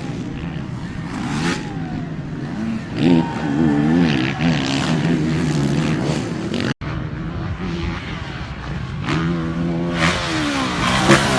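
Motocross dirt bike engines revving hard, the pitch rising and falling repeatedly with the throttle. The sound breaks off abruptly a little under seven seconds in, then more revving follows.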